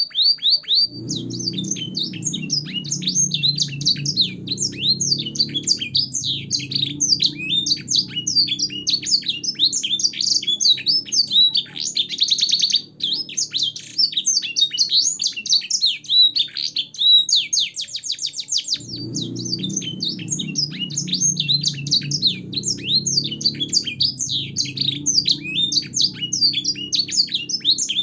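Domestic canary singing continuously in fast chirps and trills, a song filled with blackthroat and sanger phrases, with a rapid buzzy trill about twelve seconds in. A faint low rumble runs underneath for much of the time, dropping out for several seconds in the middle.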